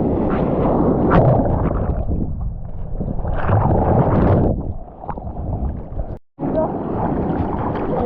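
Rushing surf and whitewater with wind buffeting a small action camera's microphone, swelling and easing in waves; the sound cuts out completely for a moment about three-quarters of the way through.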